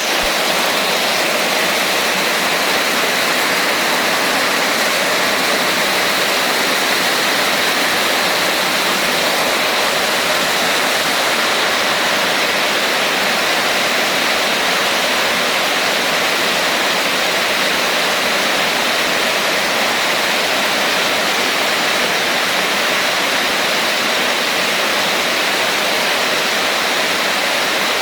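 Steady rain: a loud, even hiss that does not change, with no separate drops or thunder standing out.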